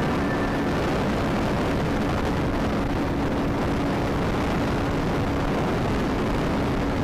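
Motorcycle at highway speed: a steady rush of wind noise on the microphone, with the bike's engine running under it as a faint even hum.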